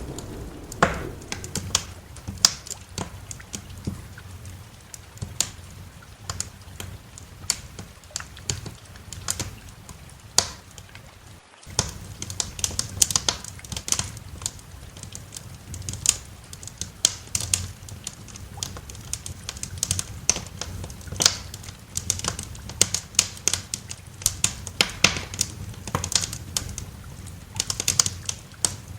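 Wood fire crackling in a fireplace: irregular sharp pops and snaps over a low steady rumble, with a momentary dropout a little over a third of the way in.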